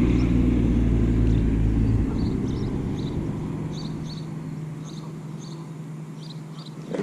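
A steady, low humming drone that is loud at first, drops back about two seconds in and then fades slowly. Short bird chirps come faintly behind it.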